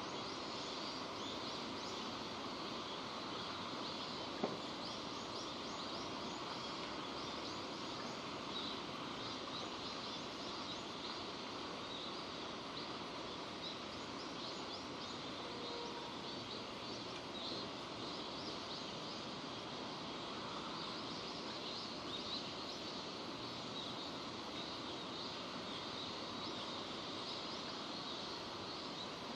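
Steady rain falling, a constant dense patter of drops, with one sharp tick about four and a half seconds in.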